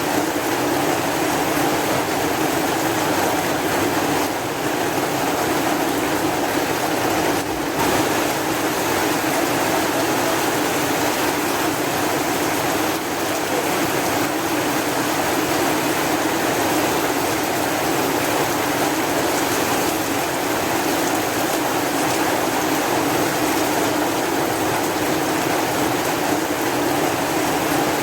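Steady rain: a dense, even hiss of water with no single drops standing out, holding at one level throughout.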